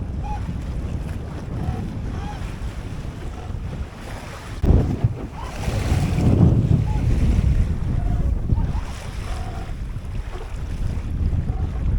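Wind buffeting the microphone over water rushing along the hull of a small sailboat under sail. A sharp knock comes about halfway through, followed by a louder surge of water for a couple of seconds.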